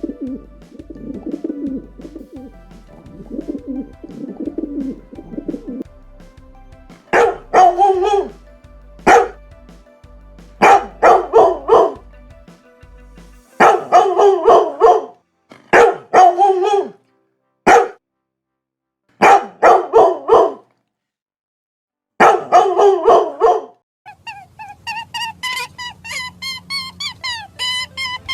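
A dog barking in loud groups of two to four barks with short pauses between, after several seconds of low, soft cooing. Near the end come quick, higher-pitched yelps, several a second.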